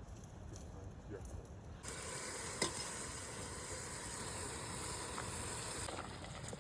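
Food frying in a hot cooking pot, an even sizzling hiss that starts suddenly about two seconds in and drops off near the end.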